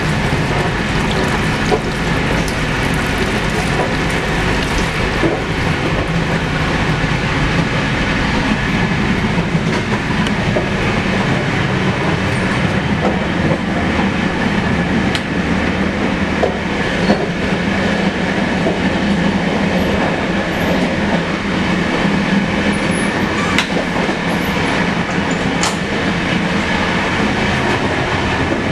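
Steady running noise of a Rajdhani Express coach moving along the track, heard from inside its washroom, with a few sharp clicks in the second half.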